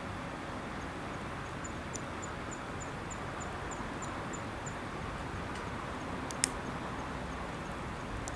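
Steady outdoor background noise with a faint series of high chirps, about four a second, for a few seconds. One sharp click comes near the end.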